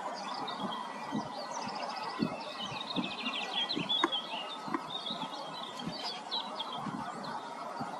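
Several songbirds singing at once, a dense mix of chirps and rapid trills overlapping throughout. Soft, irregular low thumps sound underneath.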